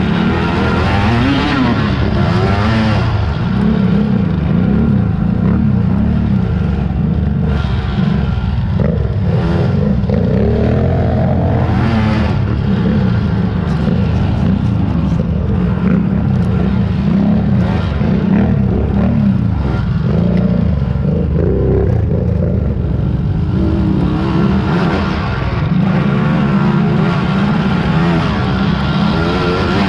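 Engines of several big-bore racing quads (ATVs) running and revving, their pitch rising and falling continuously as they accelerate and back off.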